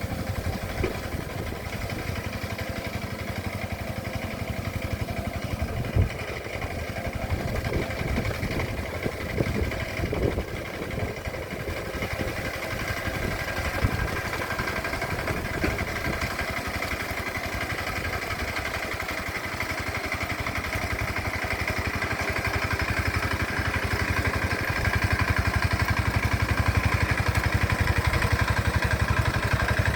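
Engine of a rice-field plowing machine (hand tractor) running steadily with a fast, even chugging, a few knocks in the middle, and growing louder for the last few seconds.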